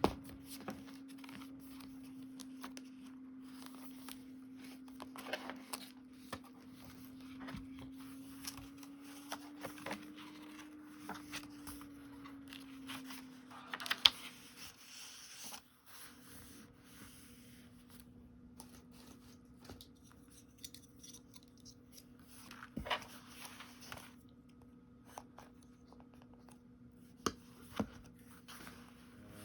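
Close-up paper-crafting sounds: paper and sticker sheets rustling, tearing and being cut, with scattered light clicks and one sharp click about halfway through. A steady low hum runs underneath.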